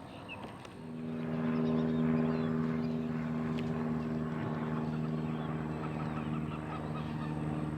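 An engine runs with a steady, unchanging hum that starts about a second in and stops near the end, with birds calling faintly.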